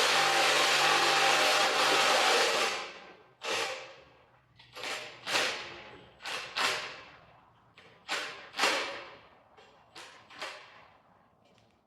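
A motor-driven tool runs steadily for nearly three seconds, then in about ten short bursts that each start sharply and fade away.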